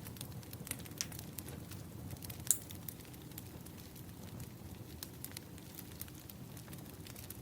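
Wood fire crackling: irregular sharp pops and snaps of burning logs over a low rumble of flame, with the loudest pop about two and a half seconds in.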